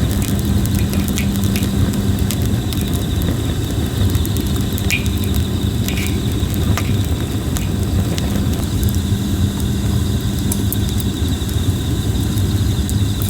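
Red-plum wood burning in a campfire, crackling with scattered sharp pops over a steady low rumble. Insects trill steadily at a high pitch.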